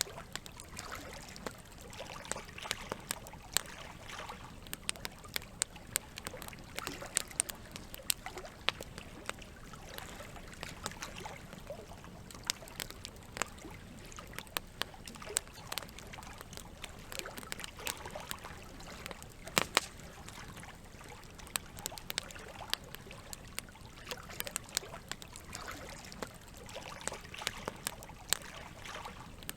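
Campfire crackling, with sharp pops scattered irregularly and the loudest pair of pops about two-thirds of the way through, over a steady rush of running water.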